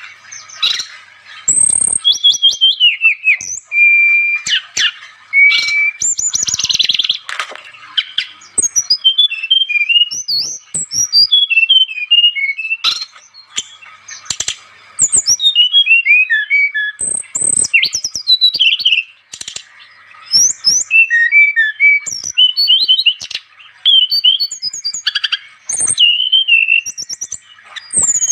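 Brown-chested jungle flycatcher (sikatan rimba dada coklat, 'SRDC') singing energetically: a loud, continuous stream of high whistles, quick chirps and falling trills in varied short phrases separated by brief pauses.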